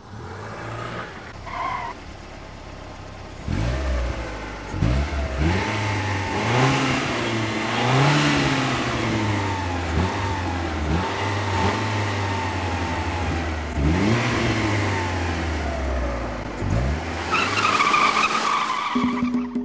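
Car engines revving hard and accelerating through the gears: the pitch climbs and drops back at each shift, several times over. Near the end a loud high tone rings over the engines.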